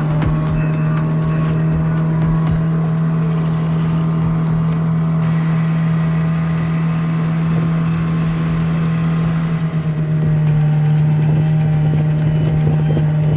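Boat engine running at a steady high speed, holding one constant pitch, with a brief flutter about ten seconds in.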